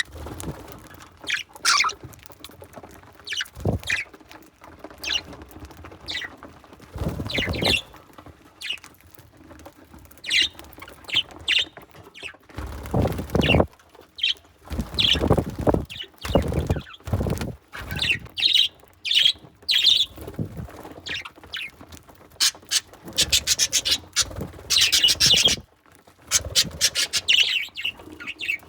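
Budgerigars chirping and squawking in many short, high calls, with louder rustling and knocking scattered between them from birds moving and pecking close to the microphone.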